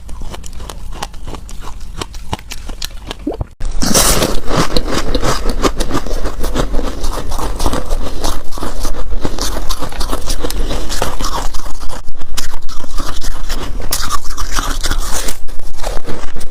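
Freezer frost being scraped and crunched close to the microphone: quieter crackling at first, then a sudden jump about four seconds in to loud, continuous crunching scrapes.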